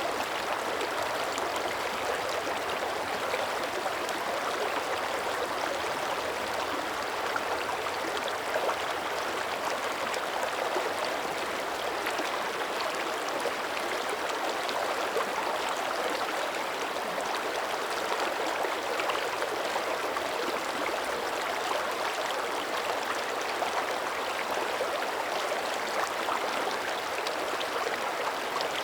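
Shallow mountain creek running steadily over rocks, a continuous bubbling rush of water with fine splashing detail.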